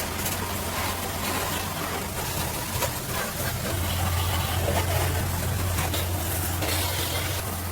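Arc welding on a steel excavator bucket: a steady, crackling sizzle from the arc over a low, steady hum.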